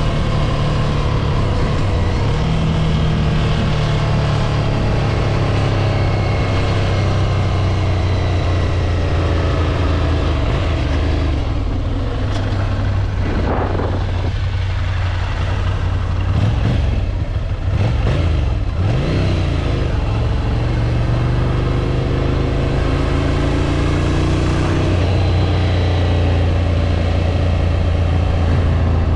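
Ducati Scrambler 803 Nightshift's air-cooled L-twin engine running under way. Its note falls and rises a few times around the middle, as with gear changes and throttle, then climbs steadily through the second half.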